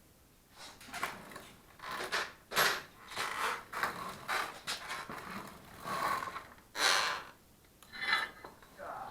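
Irregular metal clanks and scrapes as the legs are fitted to a barrel stove, with about a dozen short knocks and rattles of uneven loudness.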